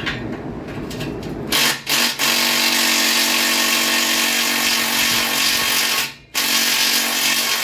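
Power tool spinning a deep-well socket: two short blips about one and a half seconds in, then a loud steady whine for about four seconds, a brief stop, and the whine again.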